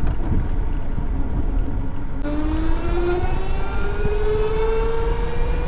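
Motorcycle riding with steady wind rumble on the microphone; about two seconds in, the engine note starts to climb slowly and evenly as the bike accelerates in one gear.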